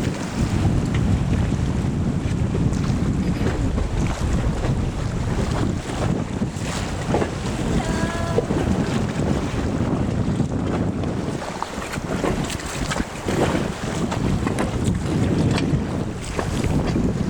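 Wind buffeting the microphone, a loud steady rumble, over rushing river water.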